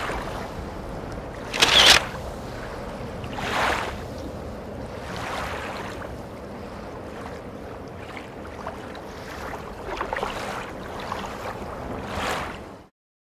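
Small waves washing in, swelling and fading every few seconds over a low rumble of wind. The loudest wash comes about two seconds in, and the sound cuts off suddenly near the end.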